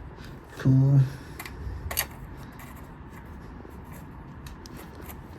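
Small clicks and handling noises of hand work fitting a carburetor onto a motorcycle engine, with one sharper click about two seconds in.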